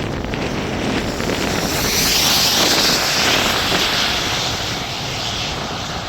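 Wind buffeting the microphone, with a passing vehicle's rushing tyre and road noise swelling about two seconds in and fading away.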